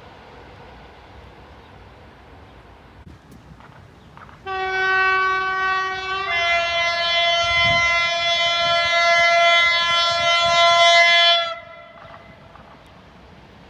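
Horn of a Polish EP07 electric locomotive: one long blast of about seven seconds that shifts to a different chord about two seconds in and cuts off sharply.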